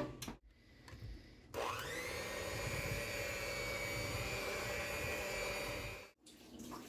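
An electric motor spinning up to speed with a rising whine, running steadily for about four seconds, then cutting off suddenly.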